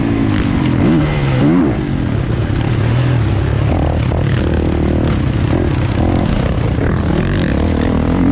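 450cc four-stroke motocross bike engine revving, its pitch rising and falling quickly with the throttle in the first two seconds, then holding a steadier, lower note.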